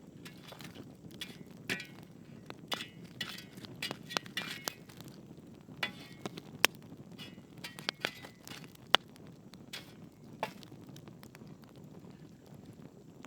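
Fire crackling: irregular sharp pops and snaps over a soft low hiss, with a couple of louder snaps past the middle.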